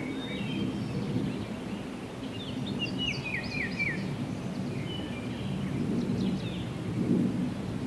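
Songbirds singing short phrases of quick downward-sliding notes, several times, over a steady low rumble of distant road traffic.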